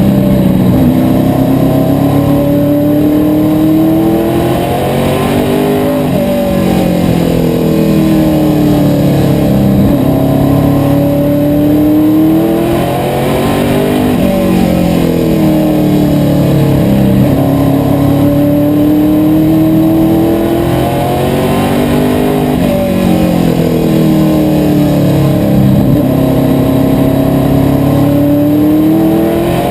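Asphalt modified race car's V8 engine under racing load, revs climbing along the straights and easing off into the turns in a cycle that repeats roughly every eight seconds as it laps.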